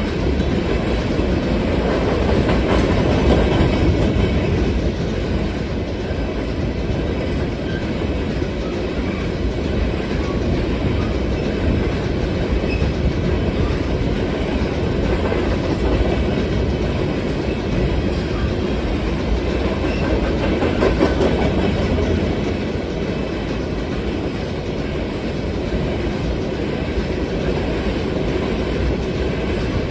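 Loaded freight cars of a long manifest train rolling past: a steady rumble of steel wheels on rail with clickety-clack over the rail joints.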